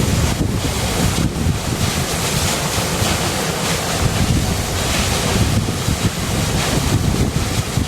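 River water rushing and splashing steadily, a continuous full rush with a deep rumble underneath.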